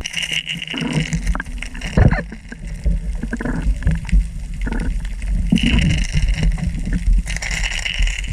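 Water splashing and gurgling around a kayak, with irregular knocks and thumps against the hull as a freshly landed small bonito is dealt with aboard; the loudest thump comes about two seconds in.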